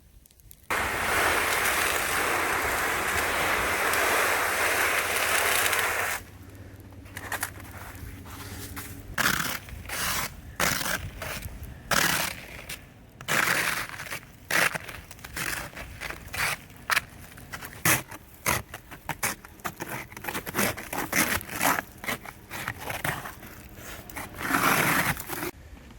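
A steady rush of noise for about five seconds, then repeated irregular scraping and crunching strokes in ice and slush.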